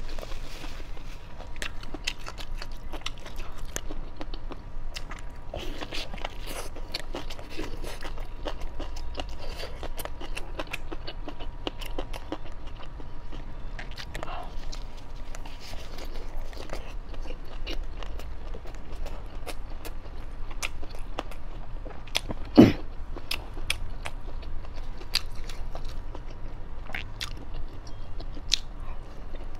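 Close-miked eating sounds: biting into and chewing a sauced barbecue wrap, with many small wet clicks and crunches throughout. One louder, short sound stands out about 22 seconds in.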